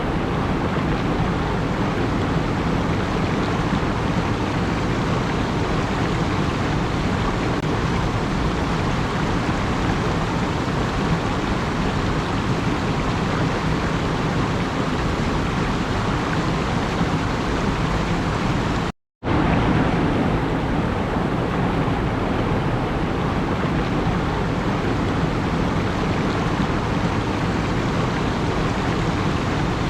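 Steady, even rushing noise with no distinct events, cutting out to silence for a moment about 19 seconds in.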